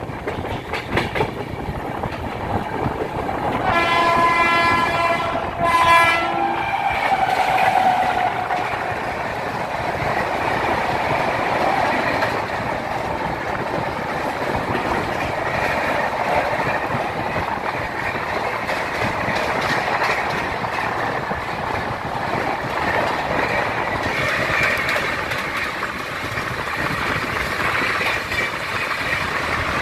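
Passenger train running at speed, its coach wheels clattering over the rail joints. A train horn sounds for about three seconds, starting about four seconds in. Near the end comes the clatter of a passenger train's coaches going past close by.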